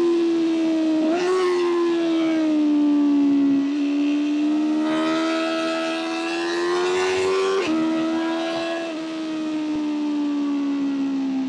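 BMW M1000R's inline-four engine pulling under way. The pitch sags slowly, then climbs for about three and a half seconds with rising wind hiss before dropping sharply at an upshift, then eases off again. There is a brief jump in pitch about a second in.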